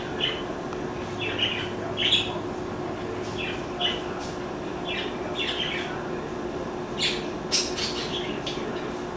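A small bird chirping in short, irregular calls, about a dozen in all, with the loudest just after 2 seconds and around 7 seconds in. A steady low hum and hiss runs beneath.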